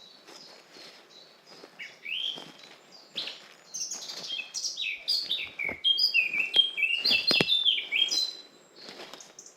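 A songbird singing a fast, varied run of clear whistled notes that step and fall in pitch, loudest through the middle, over footsteps on a forest path.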